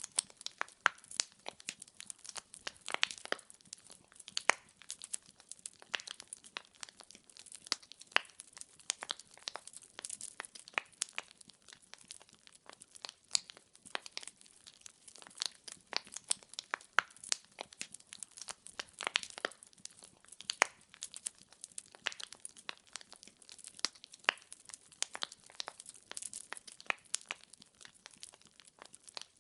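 Wood fire crackling: dense, irregular snaps and pops of burning logs over a faint hiss.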